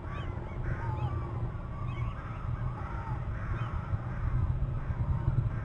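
Birds calling over and over, short bending calls several a second, over a steady low rumble.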